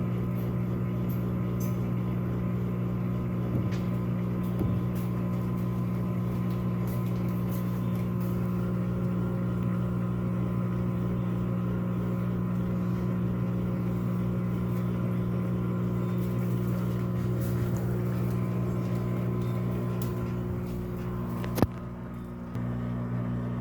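Electrolux Turbo Economia 13 kg (LAC13) top-loading washing machine running with a steady motor hum and light irregular knocking: the tub is out of balance and strikes the cabinet because a suspension spring is broken. Near the end there is one sharp click, a brief drop in the hum, then the hum resumes.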